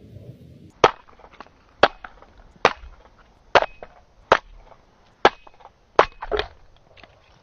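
Sharp chopping strikes, eight of them roughly a second apart, the last two close together.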